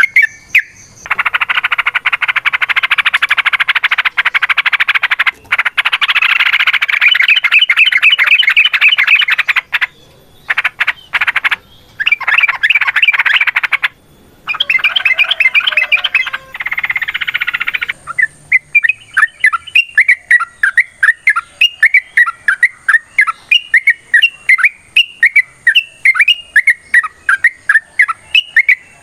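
Yellow-vented bulbul (trucukan) song. It opens with a long, fast chattering trill, breaks into short bursts, and after about two-thirds of the way through settles into a regular run of repeated chirps, about three to four a second.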